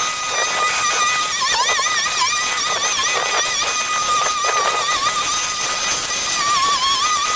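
A small engine runs at high speed with a steady whine. Its pitch dips briefly several times, as if it bogs under load.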